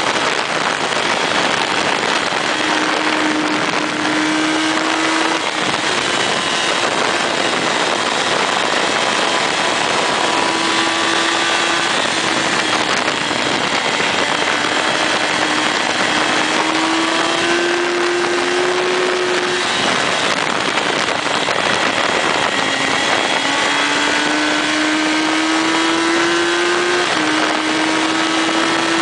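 Motorcycle riding at speed, with a steady rush of wind over the microphone. The engine note climbs slowly through each gear and drops back at the shifts, several times over.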